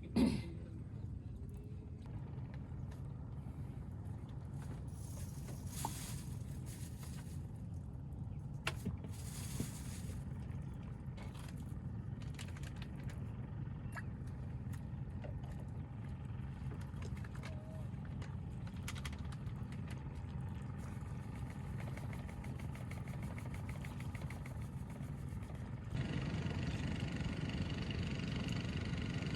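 A boat engine running with a steady low drone, after a sharp knock at the very start; a few light clicks along the way, and the engine noise gets louder about 26 seconds in.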